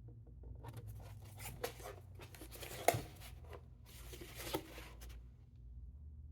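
Cardboard product box being handled and turned over by hand: scraping and rubbing of cardboard in irregular bursts, with one sharp tap about three seconds in.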